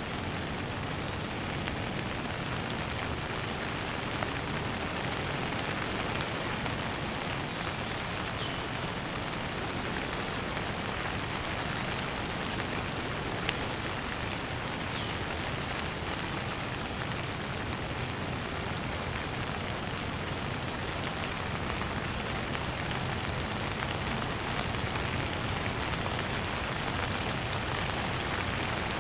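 Rain falling steadily on surfaces, an even hiss of drops with no let-up.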